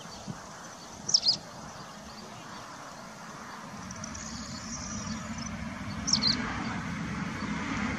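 Outdoor ambience: a bird gives two short, high chirps, about a second in and again about six seconds in, with a brief twitter between them. Under them runs a low rumble that grows louder in the second half.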